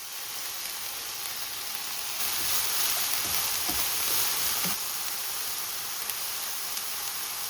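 Green peppers sizzling in sesame oil in a frying pan, a steady hiss that grows louder from about two seconds in to nearly five seconds, with a couple of light knocks.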